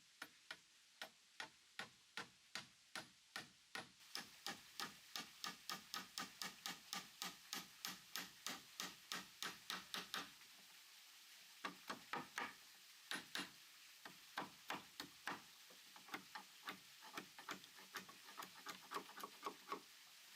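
A hand tool striking wood over and over. The blows come about two a second, then quicken to about three a second, pause briefly about halfway, and go on in irregular runs.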